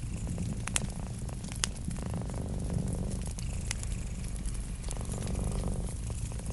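Cat purring steadily over the crackling of a wood fire. Two sharp pops stand out, at under a second and again a second later.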